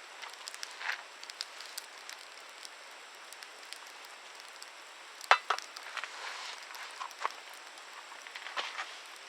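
Wood campfire crackling: irregular sharp pops and snaps over a soft steady hiss, with the loudest pop a little past halfway.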